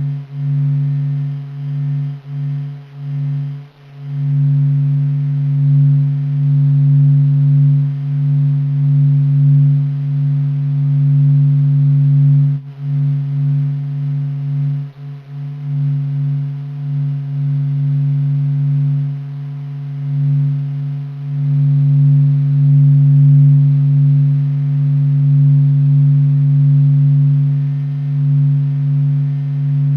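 Sonified 'sound of the sun' from NASA: a steady low droning hum with fainter higher tones over it, swelling and dipping in loudness, with brief dips in the first few seconds and about halfway through.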